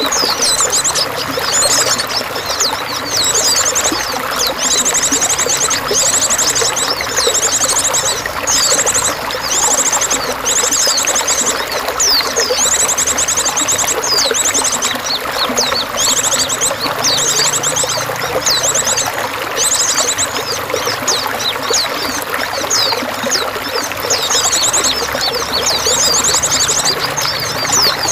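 Running water pouring and trickling steadily, with birds trilling high above it in short rapid bursts, again and again.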